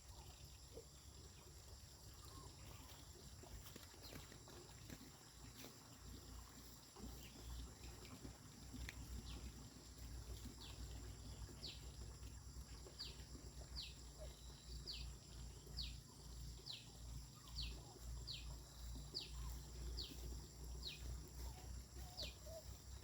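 A bird calling faintly, a short high chirp that sweeps downward, repeated about once a second from about ten seconds in, over a low rumble.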